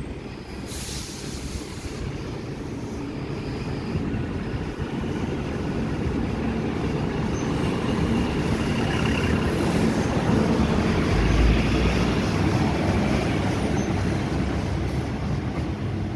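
Double-deck electric passenger train passing close by a platform: a steady rumble of wheels on rails that grows louder to a peak about two thirds of the way through, then eases as it moves away.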